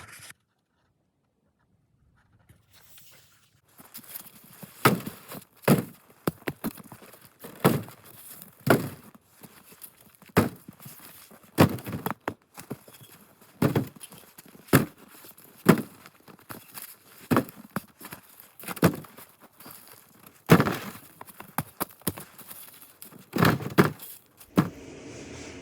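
Footsteps, roughly one a second and uneven, each step a sharp crunching hit, starting a few seconds in after near silence.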